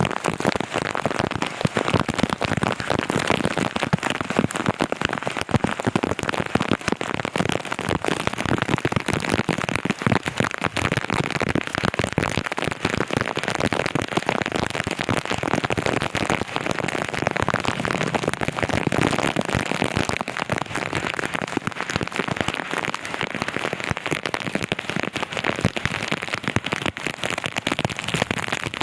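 Heavy rain falling steadily: a dense, unbroken hiss of countless drop impacts.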